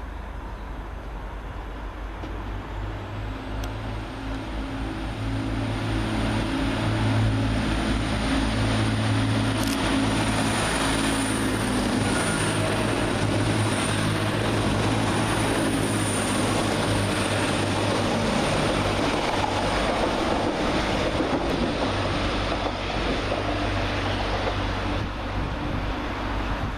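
Two coupled Class 185 diesel multiple units, each car powered by a Cummins QSK19 diesel, running through the station: the engine drone and wheel noise build over the first several seconds and hold steady, with a high whine over the top, easing off near the end.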